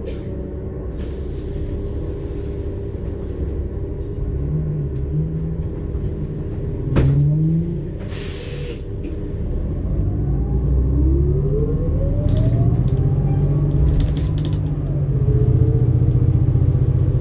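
New Flyer XN60 articulated bus running, its Cummins Westport ISL-G natural-gas engine rumbling under a drivetrain whine that rises in pitch several times as the bus picks up speed, getting louder in the second half. A sharp knock comes about 7 seconds in and a short hiss about a second later.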